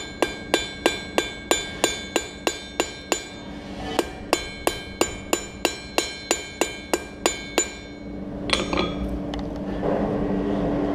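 Forging hammer striking hot steel on an anvil in a steady rhythm of about three blows a second, each blow with a bright metallic ring. The hammering pauses briefly a little past three seconds in, resumes, and stops about seven and a half seconds in, after which a steady rushing noise with a low hum carries on.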